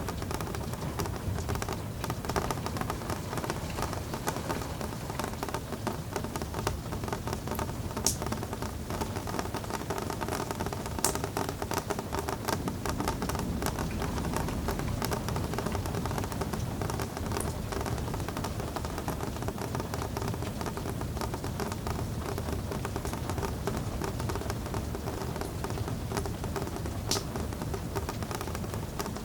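Steady rain falling, an even hiss with a few sharp isolated ticks scattered through.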